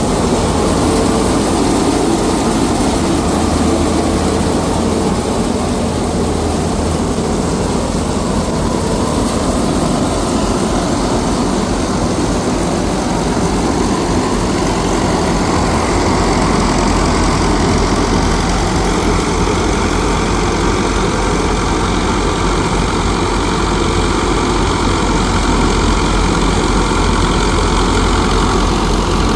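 An engine running steadily and loudly, its tone shifting slightly about halfway through.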